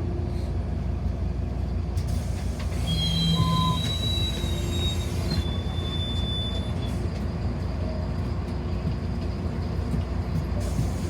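Bus interior ride noise: a steady low rumble with a constant hum, and thin high squeals for a few seconds near the middle.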